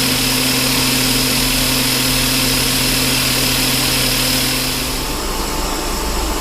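Metal lathe running, turning a heavy steel shaft, with a steady machine hum and the hiss of mist coolant. About five seconds in, the hum changes and drops slightly.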